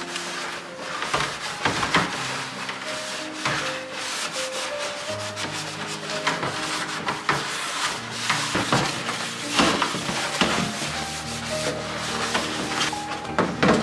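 Irregular rubbing or scrubbing strokes against a surface, over soft background music with held notes.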